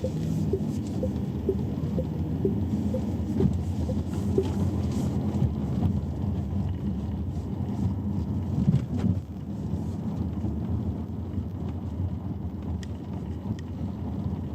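Road and tyre noise inside a Chery Omoda's cabin while driving: a steady low rumble. A soft tick repeats about twice a second for the first few seconds, then stops.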